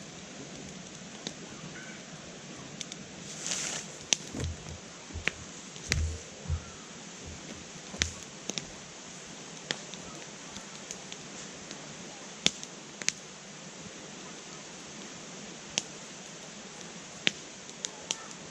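Wood campfire crackling, with sharp irregular pops over a steady hiss, a short hissing burst about three and a half seconds in, and a few low thumps around four to seven seconds.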